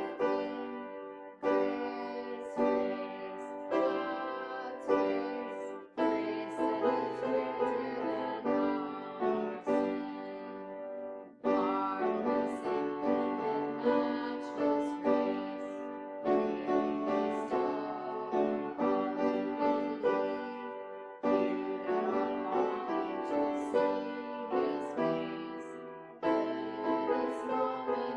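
Piano playing a slow piece, its notes struck and left to ring, in phrases of about five seconds each with short breaks between them.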